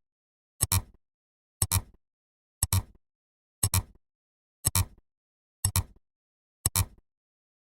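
A sound effect of sharp double clicks, one pair about every second, evenly spaced with silence between them.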